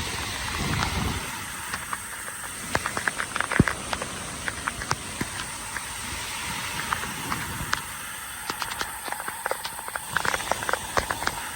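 Heavy monsoon rain falling steadily, with many sharp drop hits close to the microphone.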